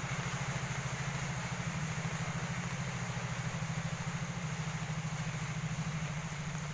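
Steady rainfall hissing, over a constant low drone with a fast, even pulse, like a motor running nearby. The low drone is the loudest sound and does not change.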